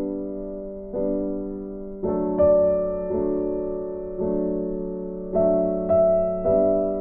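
Background music: slow, gentle piano or electric piano chords, struck about once a second and left to ring.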